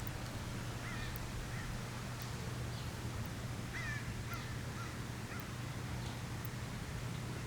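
Steady outdoor ambience with a low hum, and a handful of short, faint chirping bird calls scattered through it.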